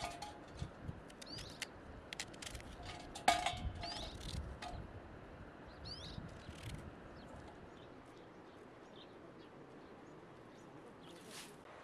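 Small birds chirping in short, repeated falling calls, with scattered clicks and one sharper knock about three seconds in.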